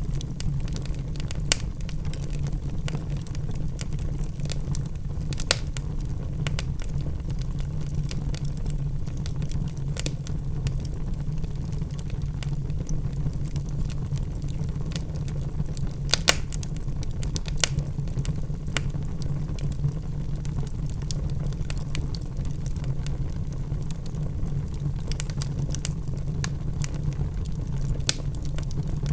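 Wood logs burning in a fireplace: a steady low rumble of flames with scattered crackles and sharp pops, the loudest pop about 16 seconds in.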